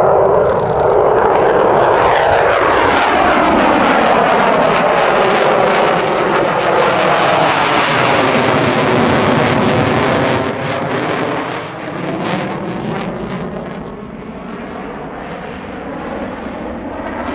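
F-16 fighter jet's engine roaring as it flies a display overhead, with a sweeping, phasing sound as it passes. Loud for about ten seconds, then it fades and stays lower as the jet moves away.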